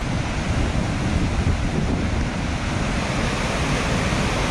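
Floodwater rushing across a flooded road ford, a steady rush with wind buffeting the microphone.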